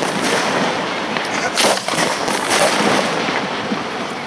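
Hand-fired fireworks going off at close range from ground mortar racks: a continuous crackling hiss, with several sharp launch reports about a second and a half in and again past the middle.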